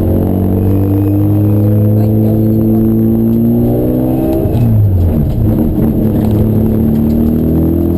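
Race car engine pulling hard under acceleration, its pitch climbing steadily, then a gear change about four and a half seconds in drops the revs before it pulls again.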